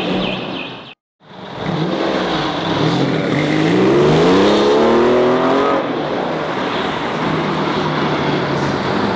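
Car engine running, cut off abruptly about a second in. It starts again and the revs climb steadily for about three seconds, the loudest part, then drop back to a steady lower drone.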